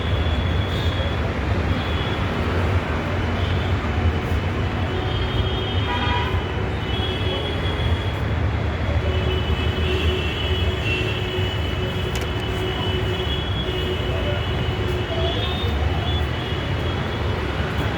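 Steady low rumble of a moving vehicle, with thin high-pitched tones coming and going over it.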